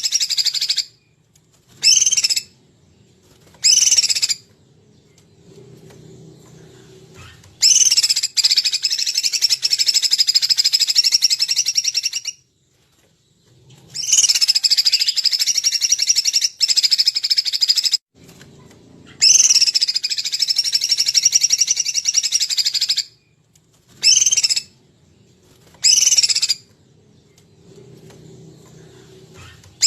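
A songbird singing in repeating bursts, played as a tutor-song recording for training murai: short high calls of under a second alternate with longer, rapid, high-pitched songs of about four seconds. A faint low hum fills the gaps.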